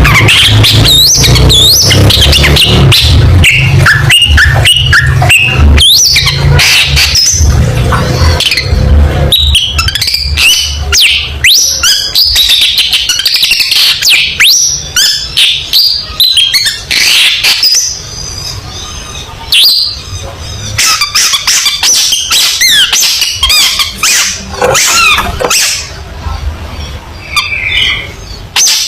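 Long-tailed shrike (cendet) singing in rapid, loud runs of chattering chirps, whistled glides and sharp clicks with scarcely a pause, the fast 'tembakan' bursts of a bird in full song. A low rumble sits under the first several seconds.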